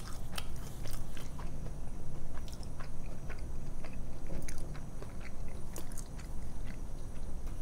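A person chewing a mouthful of food, with many irregular wet mouth clicks.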